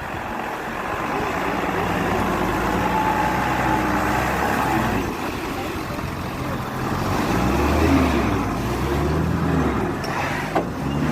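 Motorcycle engine running while being ridden, its pitch rising and falling with the throttle, over a steady rush of road and wind noise. A short click comes near the end.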